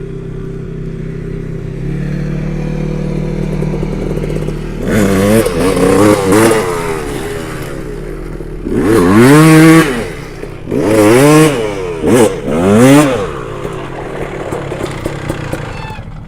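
Dirt bike engine idling steadily, then revved in four or five short blips that rise and fall in pitch before it settles back to idle.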